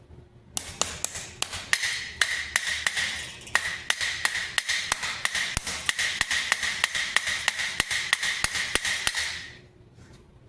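Hammer peening rivets on a steel Topfhelm, rapid even blows at about four a second with the steel ringing a steady note between them; the hammering stops near the end.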